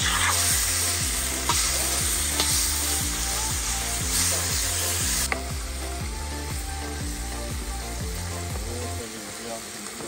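Lamb and carrots frying in fat in a cast-iron kazan, sizzling steadily, with a metal spatula stirring and clicking against the pot. The sizzle thins about halfway through.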